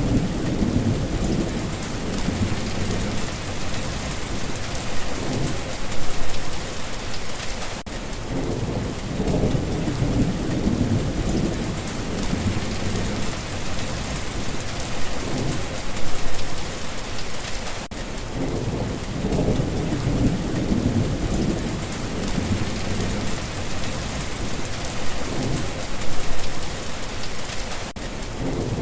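Steady heavy rain hissing, with low rumbles of thunder swelling and fading every few seconds. The stretch seems to repeat about every ten seconds, with a brief dip at each seam.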